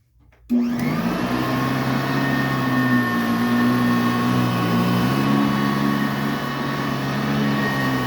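Eureka Commercial direct-air upright vacuum switched on, its motor spinning up from silence about half a second in and running steadily with a high whine, then shut off and winding down near the end.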